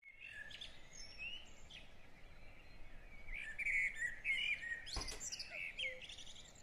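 Several small birds chirping and twittering, with many short rising and falling calls overlapping. A single sharp click comes about five seconds in.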